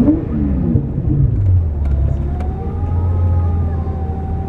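Twin-turbo V12 engine in a Toyota Supra revving up sharply at the start, falling back over the next second or so, then running steadily at low revs under a faint high whine during a donut.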